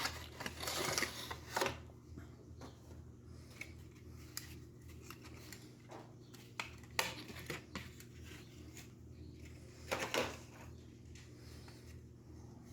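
Light clicks and rustling of plastic model train cars and their packaging being handled, busiest in the first second or so and again about ten seconds in, over a faint steady hum.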